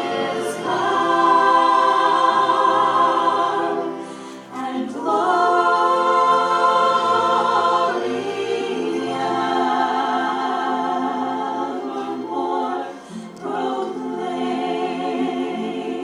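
Choir singing sustained chords in long held phrases, with short breaks about four and a half and thirteen seconds in.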